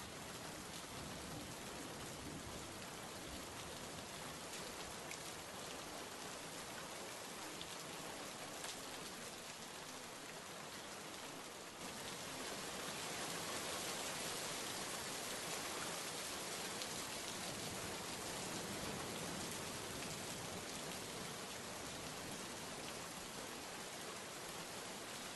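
Steady rain, an even hiss of rainfall, stepping up a little in loudness and brightness about twelve seconds in.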